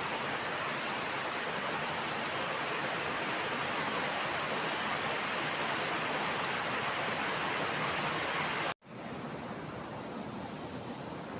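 Heavy rain pouring down in a steady roar. About nine seconds in the sound breaks off abruptly at a cut and the rain resumes a little quieter and duller.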